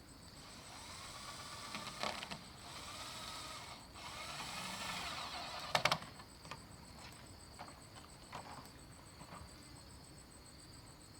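Hand work on bamboo with a tool: about five seconds of noisy scraping with a couple of knocks, ending in a sharp crack about six seconds in, then scattered light knocks.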